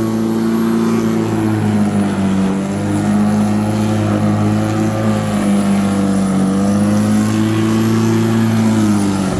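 Black & Decker 1800 W electric rotary lawnmower running under load while cutting, a steady motor-and-blade whine whose pitch sags slightly a few times. The owner says it is making a bit of noise and puts this down to worn blades that might need rebalancing.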